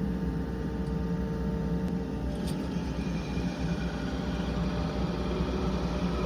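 Hyundai HX65AMT excavator's diesel engine running steadily with a low, even hum; a fainter higher tone over it stops a little over two seconds in.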